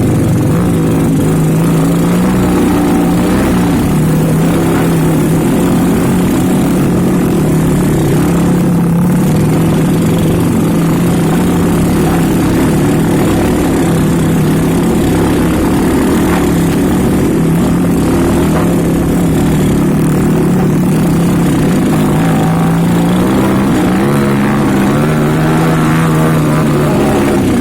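Motorcycle engine running steadily while riding, its pitch rising and falling slightly with the throttle.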